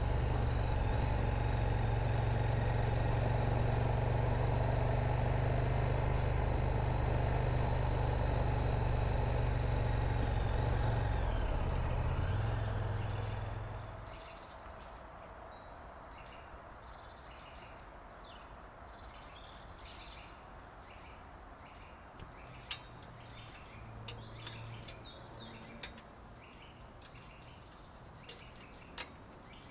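KTM Super Duke V-twin engine through its stock exhaust, running at a steady note, then wavering and dying away about 13 seconds in. Birds chirp after it, with a few sharp clicks near the end.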